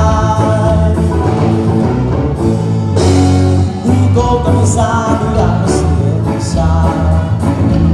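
Live band playing a song through a PA with a singer over it, with heavy, sustained bass.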